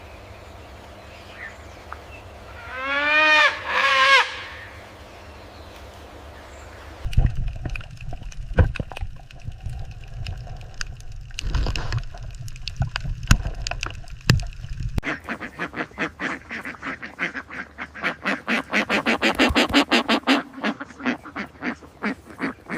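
Waterfowl calling: two loud honking calls about three seconds in. From about halfway, a series of clicks and knocks, then a fast run of short repeated pulses near the end.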